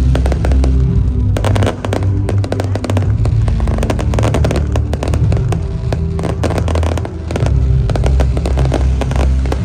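Fireworks crackling and popping in rapid, dense strings, over music with a heavy deep bass.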